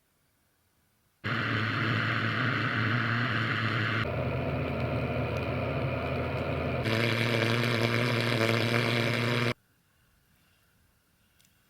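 Vehicle engine and road noise in three back-to-back stretches of about three seconds each. Each stretch has a different tone. The sound starts abruptly about a second in and stops abruptly near the end.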